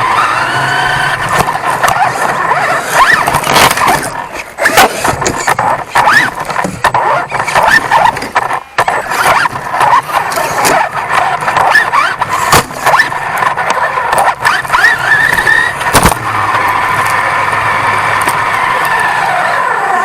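1/10-scale off-road RC truck driving, its motor whining and rising and falling in pitch as the throttle changes, with frequent knocks and rattles as the chassis bounces over the ground. Near the end the whine holds steadier.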